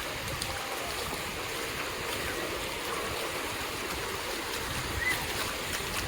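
Steady wash of ocean surf on a sandy beach, with a few faint short cries in the distance.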